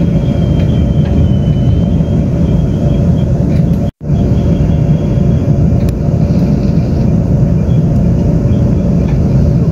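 Steady running rumble of a Taiwan Railways express train heard from inside the passenger car, wheels on rail at speed, with a faint high whine in the first couple of seconds. The sound drops out for an instant about four seconds in.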